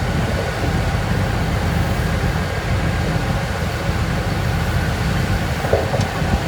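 Heavy earthmoving machinery's diesel engine running steadily in a low rumble, with a brief metallic knock near the end.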